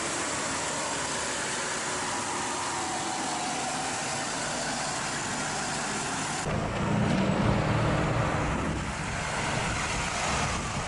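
Supercharged 3.8-litre Buick 3800 V6 of a 1995 Buick Riviera running steadily at idle, heard from under the open hood. About six and a half seconds in, the sound switches to the car driving off, louder and deeper, then easing away.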